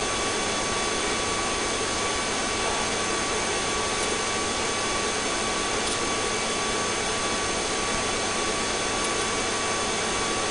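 Police helicopter noise as picked up inside the cabin on the crew's audio: an even, unbroken hiss with a few faint steady whines.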